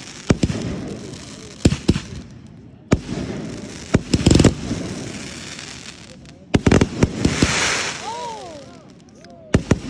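Aerial fireworks going off close by: a string of sharp bangs, loudest about four seconds in. A burst of crackling follows after about seven seconds.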